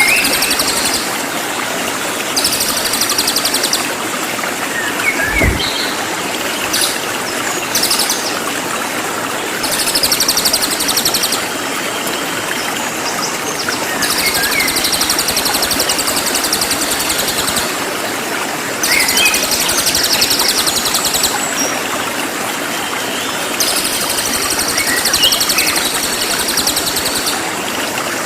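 Cililin songbird singing in repeated bursts of rapid, very high-pitched trilling, each a couple of seconds long with short pauses between, plus a few lower chirps. Running water plays steadily underneath, and there is a single soft thump about five seconds in.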